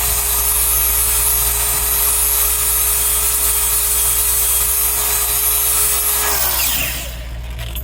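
Handheld grinder with an abrasive disc grinding the face of a chipper tooth from a Bandit Beast 4680 mill: a steady motor whine over a loud grinding hiss. About six and a half seconds in, the disc comes off and the motor winds down.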